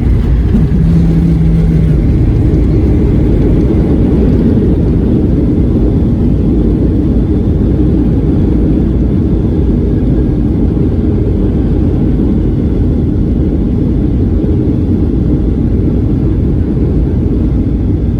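Steady low rumble of a Boeing 737 heard inside the cabin during landing: engine and airframe noise, with a brief steady hum about a second in.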